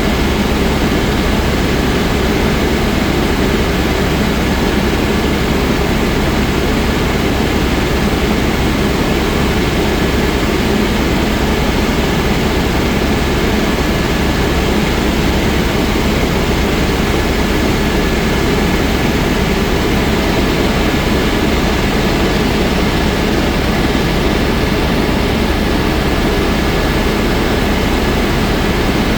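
Helicopter in flight: the steady, loud drone of its turbine engine and rotor, with a thin steady whine above it.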